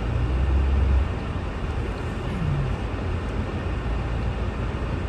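A car driving on a snow-covered road: a steady low rumble, louder for about the first second.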